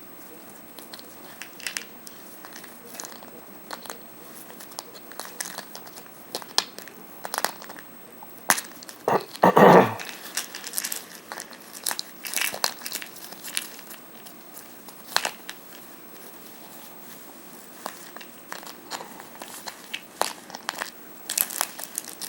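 A plastic pill bottle being handled and bitten by an African grey parrot: irregular sharp clicks and crinkling, with a louder, longer burst about nine seconds in.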